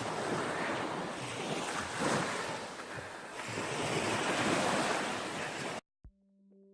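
Sea water washing and swelling in waves, with wind on the microphone; it cuts off suddenly near the end.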